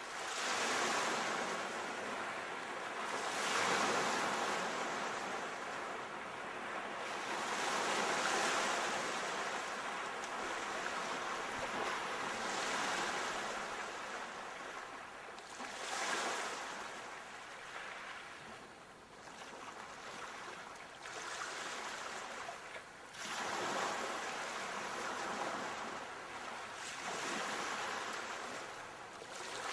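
Sea waves breaking as surf, each wave swelling and then falling back, one every few seconds and at uneven intervals.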